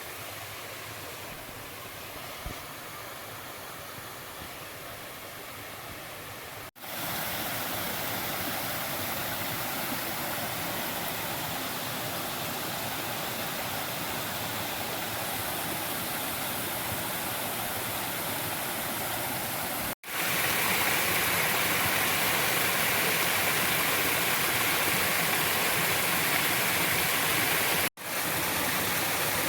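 Rain-swollen creek, water rushing steadily in several shots that cut off abruptly. The flow grows louder after cuts about 7 and 20 seconds in.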